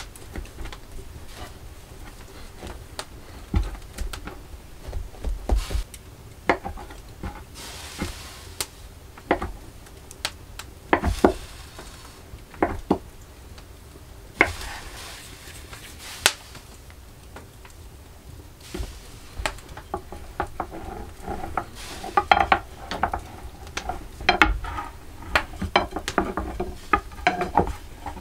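Kitchen utensils and dishes clinking, knocking and scraping during food preparation, in irregular strokes that get busier after about twenty seconds.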